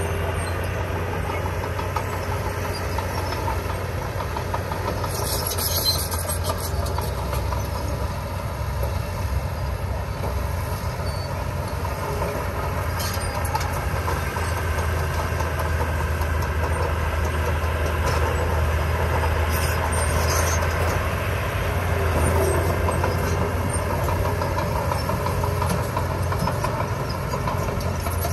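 Heavy construction machine's diesel engine running steadily with a deep, even drone, with a few brief high-pitched clanks or squeaks now and then.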